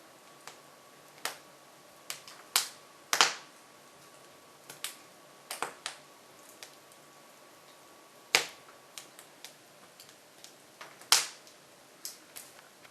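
Hardwood logs burning in an open-fronted Jøtul F500 wood stove, crackling with irregular sharp pops. The loudest pops come about a second in, around three seconds, about eight seconds and about eleven seconds in.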